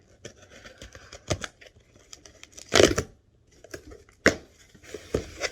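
Cardboard shipping box being pulled and torn open, tape and cardboard ripping in short irregular bursts, the loudest rip about three seconds in.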